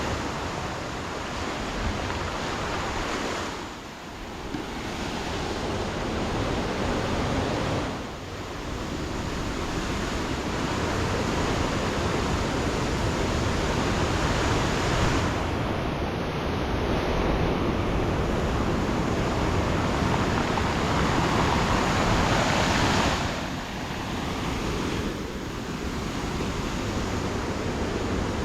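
Steady rushing noise, like surf or wind outdoors, that swells and eases with a few short dips in level.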